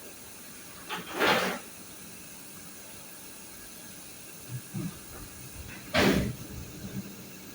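Steady hiss with two short rustling noises, about a second in and again about six seconds in, and a few faint knocks between them.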